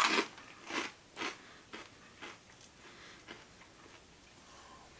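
Person chewing crunchy dry bread croutons, about two crunches a second, loudest at first and fading out after about three seconds.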